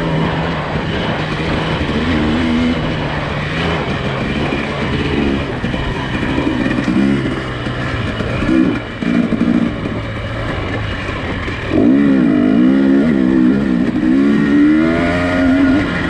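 Nissan Pathfinder engine running under load on a rough off-road trail, its pitch rising and falling again and again as the throttle is worked, over a steady low drone. The engine gets louder and revs hardest about three quarters of the way through.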